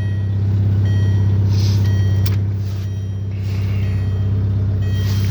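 1998 Volkswagen Beetle engine idling steadily shortly after a cold start, a steady low hum that dips slightly midway.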